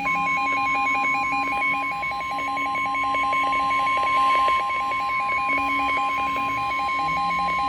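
NOAA Weather Radio 1050 Hz warning alarm tone: one loud, steady, unbroken tone that marks an urgent alert such as a severe thunderstorm warning. A rapid beeping of about five pulses a second runs alongside it.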